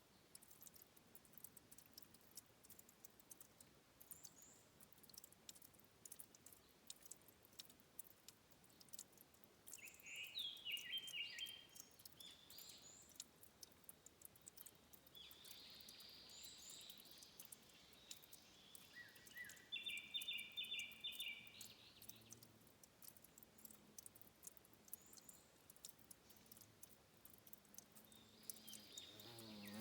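Faint, quiet ambience of a stream's source spring: a scatter of tiny water ticks and drips. Small birds chirp in short bursts a few times, including a quick trill about two-thirds of the way through.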